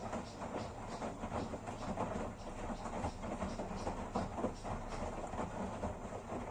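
Washing machine churning a load of clothes roughly: a continuous rumble with many rapid, irregular knocks and thumps.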